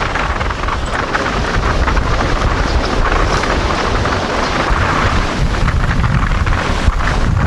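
Storm wind blowing hard over the microphone: a loud, continuous noisy rush with heavy low buffeting.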